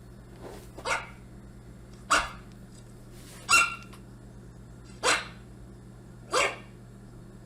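A dog barking through computer speakers: five single barks spaced about a second and a half apart, over a steady low hum.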